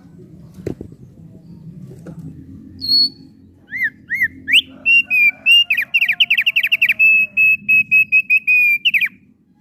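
Thick-billed white-eye (opior paruh tebal) singing. After a few seconds of faint low rustling, a single high whistle is followed by clear whistled notes, a fast run of notes and then a string of even repeated notes, stopping just before the end.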